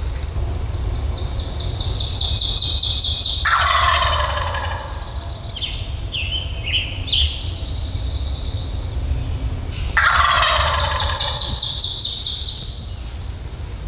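Wild turkey gobbler gobbling twice at close range, about three and a half seconds in and again about ten seconds in, with a few short higher calls between.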